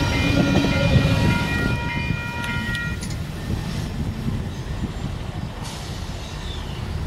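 A freight train of tank cars rolling past, a heavy low rumble with several high, steady ringing tones over it. About three seconds in the tones stop and the rumble fades to a quieter, even background noise as the train clears.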